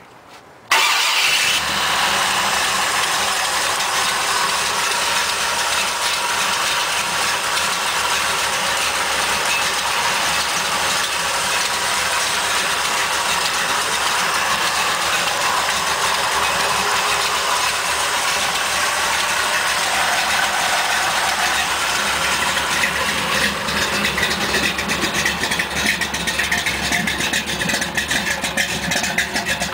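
Ford 428 big-block V8 of a 1971 Ford F-100 running steadily, setting in suddenly just under a second in. Over the last several seconds it turns rougher and more uneven.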